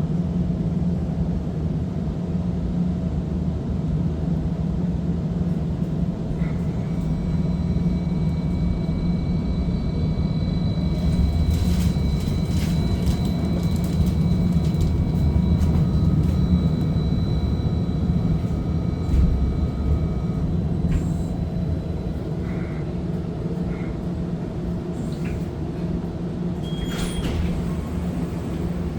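Inside a First Hill Streetcar while it runs: a steady low hum from the car, with thin high-pitched whining tones that come in about a quarter of the way through and fade out about two-thirds through, plus a few scattered clicks and knocks.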